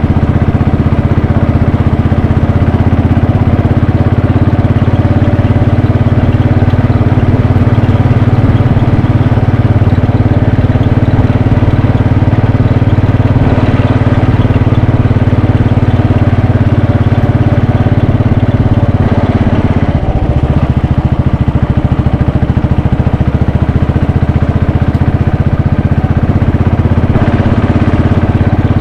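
Royal Enfield Bullet 500's single-cylinder engine running steadily under way. It has a brief dip in level about two-thirds of the way through, after which it settles again.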